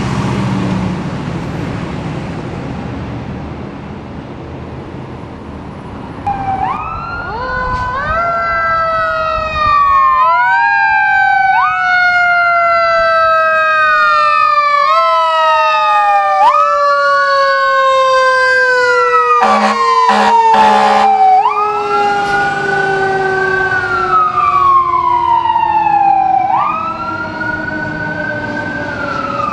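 Emergency vehicle sirens responding code 3: after a few seconds of heavy engine rumble, several electronic wail sirens start about six seconds in, sweeping up and down every two to three seconds over one another. Under them a mechanical siren slowly winds down, and a few short horn blasts sound about two-thirds of the way through.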